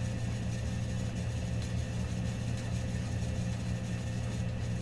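Steady low mechanical hum with a thin steady tone above it, unchanging throughout, like a motor or appliance running in the room.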